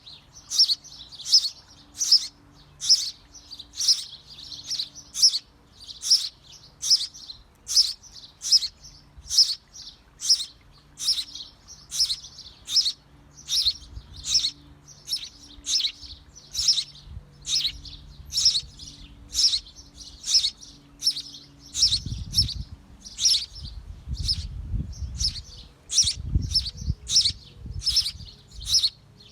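A small bird chirping repeatedly, short sharp high chirps at an even pace of about two a second. In the last third a low rumble sits underneath for a few seconds.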